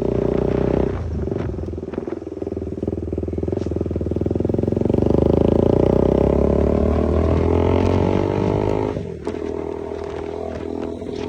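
KTM motorcycle with a newly fitted aftermarket exhaust accelerating away: the engine note dips about a second in, climbs steadily in pitch and loudness, then drops sharply near the end as the throttle is shut or a gear changed.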